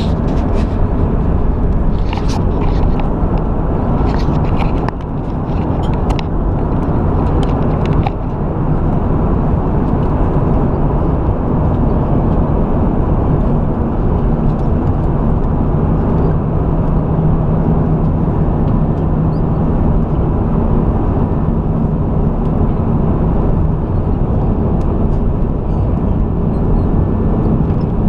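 Airbus A320 cabin noise during descent: a steady rush of airflow and engine noise with a low hum. A few short clicks and knocks come in the first eight seconds.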